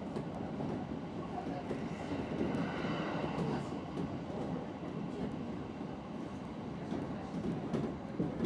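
Kintetsu Ikoma Line electric commuter train running at speed, heard from inside the cab: steady rolling noise of the wheels on the rails.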